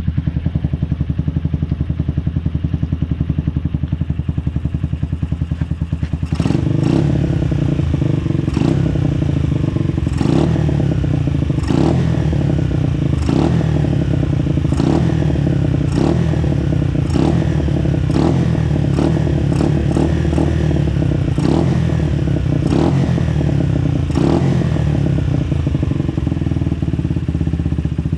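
Honda XR125L single-cylinder four-stroke engine running through an aftermarket stainless steel exhaust, steady at first. About six seconds in it steps up louder, with sharp cracks roughly every second and a half.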